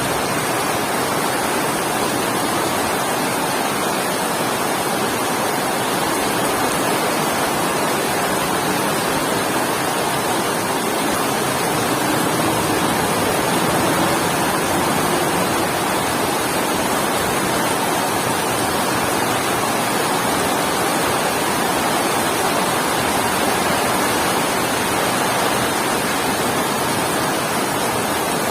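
Heavy rain falling steadily: a dense, even hiss of downpour that holds the same level throughout.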